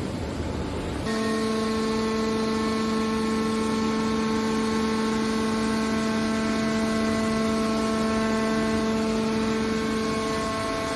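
A steady mechanical hum with a constant pitch that comes in about a second in over a background of machine noise and holds unchanged.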